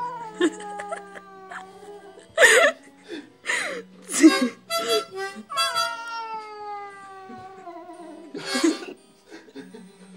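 A harmonica is played haltingly, with low held notes and several short breathy chord blasts. Over it, a house cat yowls in long, drawn-out cries that slide down in pitch, once at the start and again about halfway through, reacting to the harmonica.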